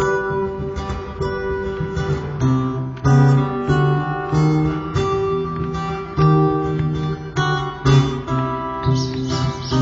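Acoustic guitar playing an instrumental passage of separately plucked notes, with no singing.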